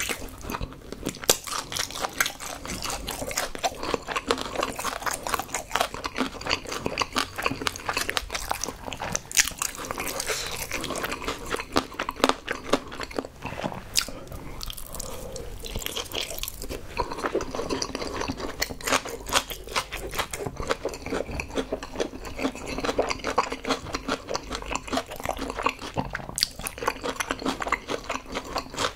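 Close-miked crunching and chewing of crispy glazed fried chicken, with about a second of softer, wetter chewing midway as a mouthful of spicy rice cakes and glass noodles goes in.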